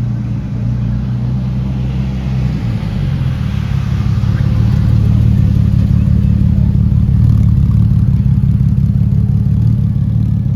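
A car engine running close by at a steady low note. The note shifts slightly about two and a half seconds in and grows louder about four seconds in, then holds.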